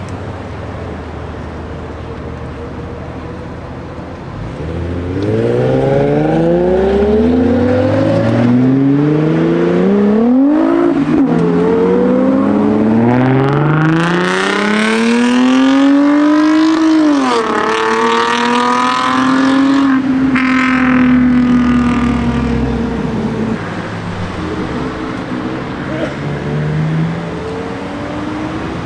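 Car engine accelerating hard through the gears. The revs climb, drop sharply at each upshift, then hold steady and fade as the car drives off.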